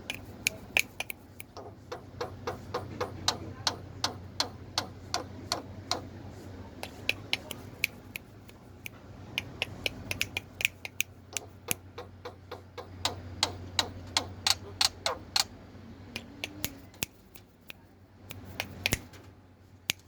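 Black-winged myna (jalak putih) making a long run of sharp, dry clicks, a few a second, with short pauses, over a low steady hum.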